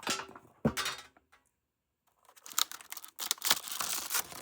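Packaging being handled and opened: two short clicks, then a couple of seconds of crinkling and tearing of the wrapping around a box of chocolates.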